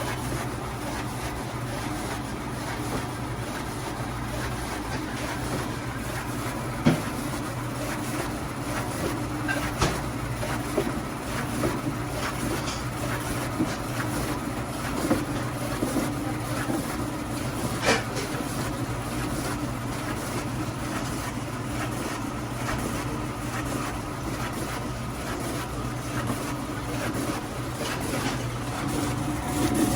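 Radish-slicing food machine running steadily: an even motor hum and mechanical clatter, with a few sharp clicks scattered through.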